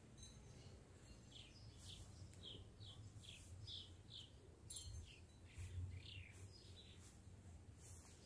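Faint bird chirping: a run of short, high chirps, each sliding down in pitch, about two a second, over a low background rumble.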